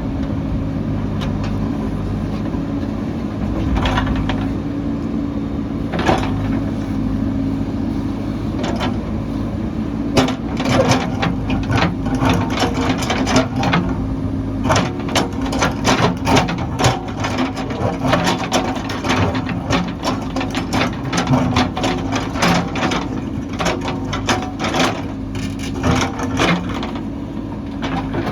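Heavy construction machine's diesel engine running steadily, with frequent clanks, knocks and cracks of material being dug or broken, coming thick and fast from about ten seconds in.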